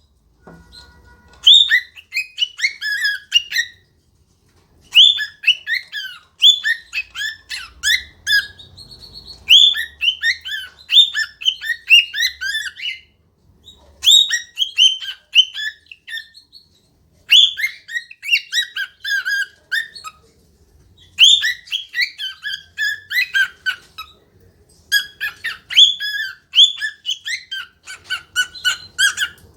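A pet cockatiel singing and chattering: bouts of a few seconds of rapid, warbling whistled notes, broken by short pauses.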